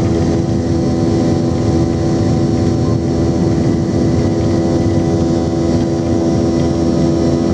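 Boeing 717's Rolls-Royce BR715 turbofan engines running steadily, heard inside the cabin: a loud, even hum of several steady tones over a low rumble.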